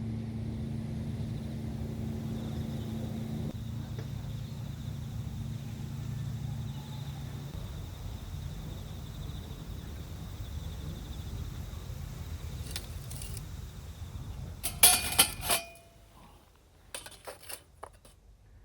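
A steady low rumble, then a quick cluster of sharp metallic clinks about fifteen seconds in as the rumble stops, with a few fainter clinks after.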